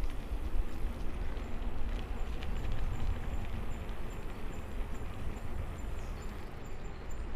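Wind buffeting the microphone and tyres hissing on wet pavement during a bicycle ride in the rain, with a faint, evenly spaced high ticking.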